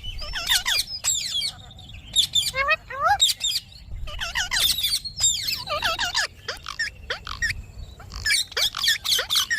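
Parrots chattering in rapid bursts of curved chirps and squawks, separated by short pauses, with several calls overlapping.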